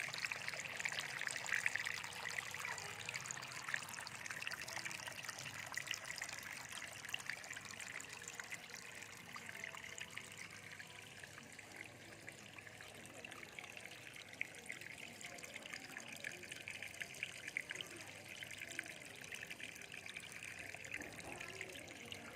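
Small fountain water trickling and splashing steadily into its basin, a little louder for the first few seconds.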